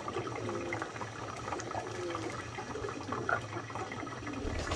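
Water running steadily, with a few short pitched calls about half a second and two seconds in.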